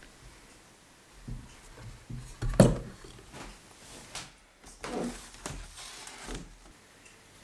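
Indoor handling sounds: a few knocks and rubs of objects being moved, the loudest a sharp knock about two and a half seconds in.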